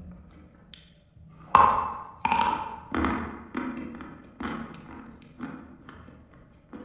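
Crunchy chewing of a mouthful of dry chalk: two loud crunches about a second and a half in, then a run of softer crunches roughly every half second, fading.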